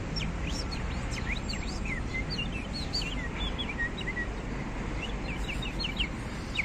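Several small birds chirping in quick, short notes that sweep up and down in pitch, over a steady low background hum.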